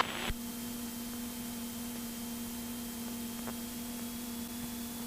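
Steady hum and hiss of a Cessna 172 cockpit as carried through the headset intercom recording feed, with one faint tick about three and a half seconds in.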